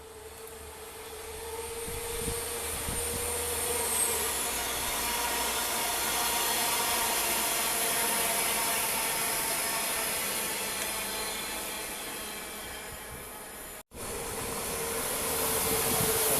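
A train passing: a steady rush of wheel and rail noise that builds over the first few seconds, holds, and then eases off. It cuts off suddenly near the end, and train noise starts building again straight after.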